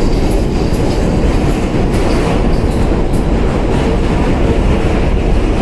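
A New York City subway D train running across the Manhattan Bridge: a steady, loud rumble of wheels on the rails, with occasional light clicks.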